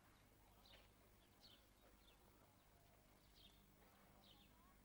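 Faint bird chirping: short, high, falling chirps repeated every second or so, over a low steady hum.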